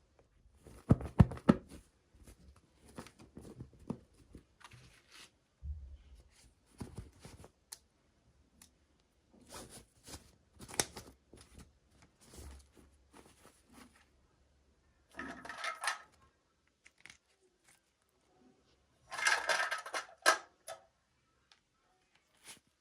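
Toy packaging being handled and opened: scattered small clicks, taps and rustles, with two louder spells of crinkling or tearing, one about a quarter of a way from the end's first half and a longer one near the end.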